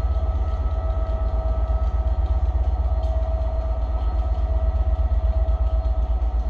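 Locomotive-hauled passenger train led by a Class 67 diesel locomotive moving slowly through the station. A steady, loud low rumble carries a constant whine over it.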